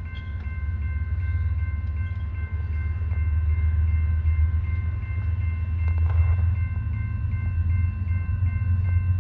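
Approaching BNSF train's diesel locomotive: a low engine rumble that grows steadily louder. A set of steady high-pitched ringing tones sounds over it throughout, and there is a brief rattle about six seconds in.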